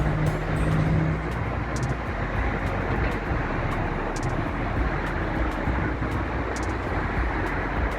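Steady hiss of road traffic, with an engine's hum passing during the first second.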